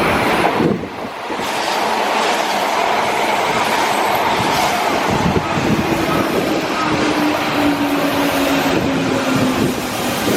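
Hanshin 5000 series 'Jet Car' electric train running through the station, loud wheel-and-rail noise throughout. A motor tone slowly falls in pitch through the second half.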